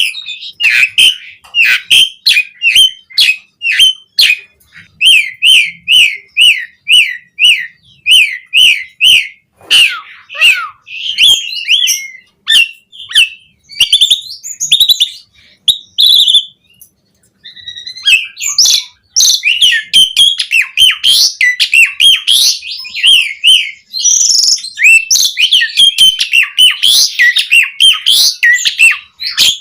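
Asian pied starling singing. It starts with a run of short, evenly repeated up-and-down whistled notes, about two a second, then moves into varied chattering phrases. After a brief pause just past the middle, the phrases come denser and more mixed.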